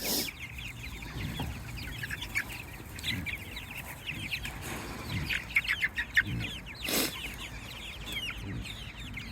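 A flock of four-week-old meat chickens peeping, with many short, high, falling chirps overlapping. There is a sharp knock about seven seconds in.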